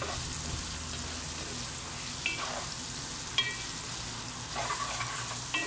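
Chicken and carrot strips sizzling in oil in a nonstick pan, stirred with a wooden spatula that scrapes across the pan a few times.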